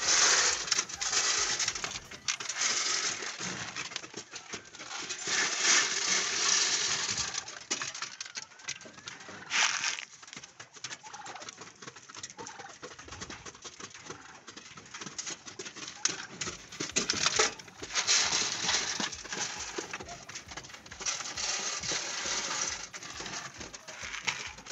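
Laying hens in battery cages clucking and moving about, with dense clicking and rustling that comes in loud stretches several seconds long.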